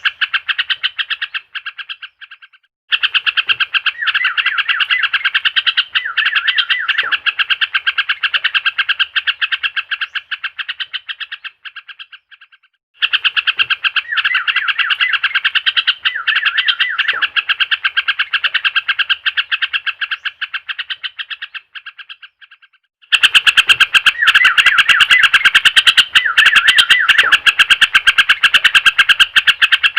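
Bird-lure recording of fast, rapidly pulsed chirping trills, played as a repeating loop for a trucukan (yellow-vented bulbul) that has gone quiet. Each pass lasts about ten seconds and fades out, then restarts abruptly after a brief gap, three times in all.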